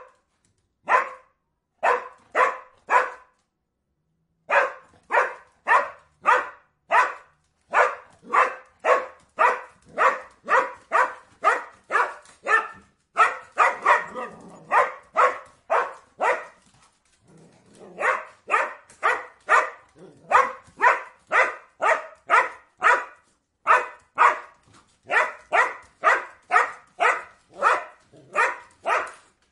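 A dog barking over and over, about two barks a second in long runs, with a short pause about three seconds in.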